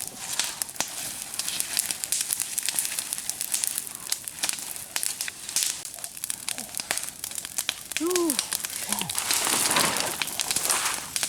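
Fire crackling with a dense run of sharp pops and snaps, swelling into a louder hiss near the end.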